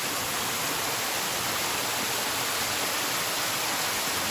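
Steady rushing of falling water from a waterfall, an even unbroken roar with no separate splashes.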